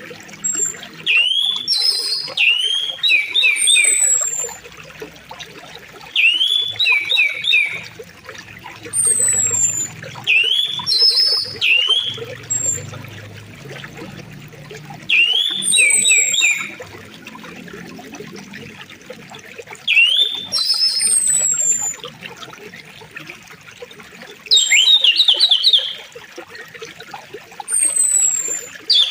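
Songbirds singing short repeated phrases every few seconds, quick rising-and-falling notes with thin high whistles, over the steady flow of a river.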